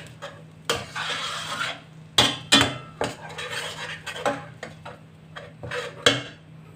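A utensil stirring in a cooking pot, scraping and knocking against the pot several times at irregular intervals, over a steady low hum.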